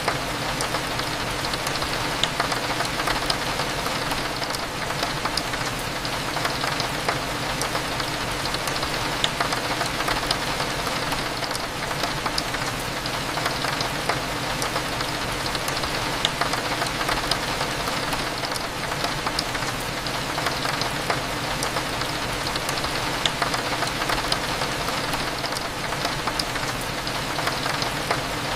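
Steady rain falling against a window, with many small drop ticks over a continuous low hum.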